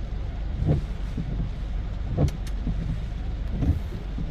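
Low, steady rumble of a motor vehicle running, with three short dull thumps spread through it.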